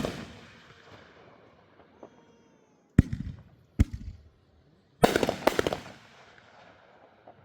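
Backyard consumer fireworks going off in sharp bangs: the tail of a bang dies away at the start, then single bangs about three and about four seconds in, and a quick run of several cracks around five seconds in.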